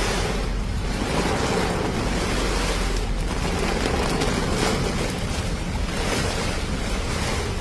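Strong storm wind blowing steadily across the microphone, with a deep rumble of wind buffeting it.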